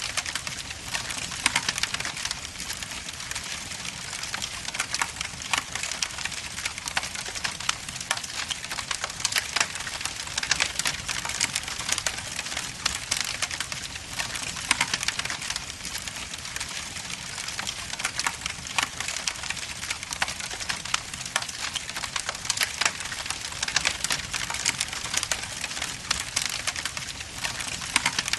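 Wood logs burning in a fireplace, crackling steadily with dense small pops and snaps.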